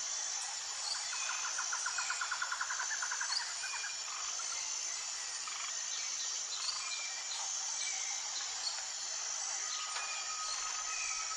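Outdoor nature ambience: a steady high-pitched insect chorus with scattered bird chirps. A rapid trill of about ten pulses a second runs from about one to three and a half seconds in.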